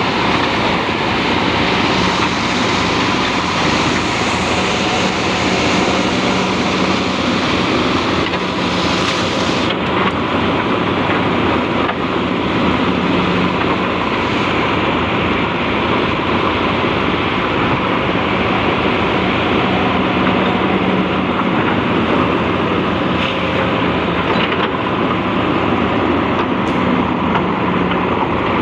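Hydraulic excavator's diesel engine running steadily, with a hum that swells and fades every few seconds as the machine works.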